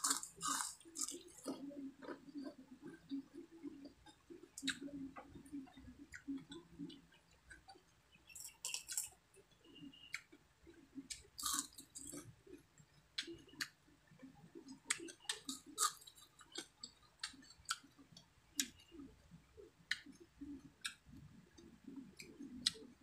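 Close-miked mukbang chewing of fried dried milkfish (daing na bangus): a steady run of soft, wet chewing sounds broken by sharp lip smacks and clicks.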